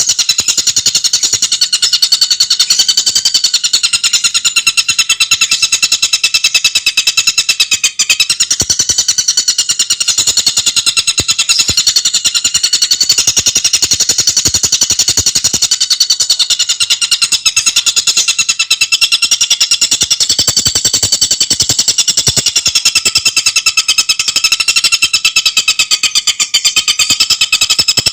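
Tengkek buto singing without a break: a fast, tightly packed trill of sharp, high repeated notes that runs on steadily.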